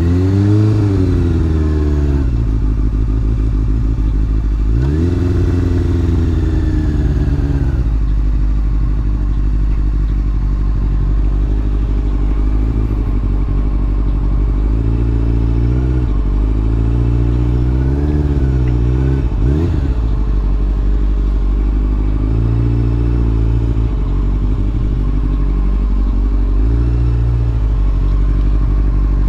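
Sport motorcycle engine running, its engine speed rising and falling repeatedly as the throttle is opened and closed.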